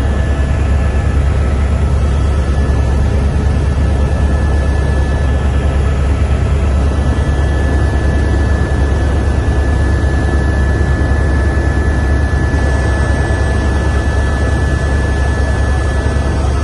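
Tour helicopter in flight, heard from the cabin: a steady deep rumble of engine and rotor with a thin steady whine above it.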